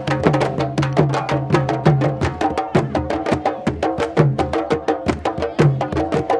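Candombe drumming: several tambores played together in a fast, steady rhythm, with sharp clacks of stick on wood over the pitched drum tones.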